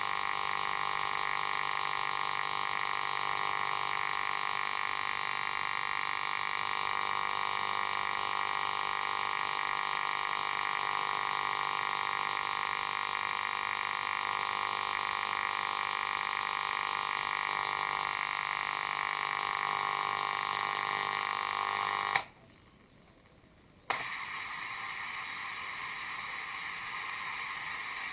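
Old car radio's speaker putting out a steady, multi-toned hum or whistle that cuts off with a click about 22 seconds in. After a second and a half of quiet, another click brings a steady rushing hiss of static.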